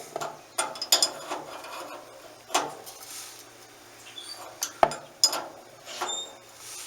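A wrench and metal plumbing fittings clinking and knocking: about six separate sharp strikes, a few with a short metallic ring.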